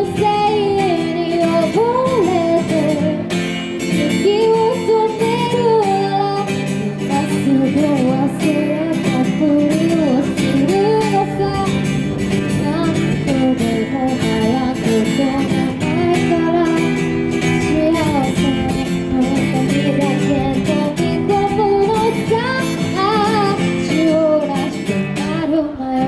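A woman singing a pop song to a strummed acoustic guitar, performed live.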